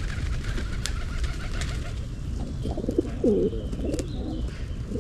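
Pigeons cooing, a run of low, rolling coos in the second half, over a steady low rumble.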